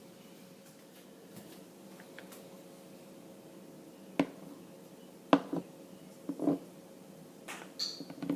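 Kitchen handling noises: about half a dozen sharp knocks and clicks in the second half, with a short high ring near the end.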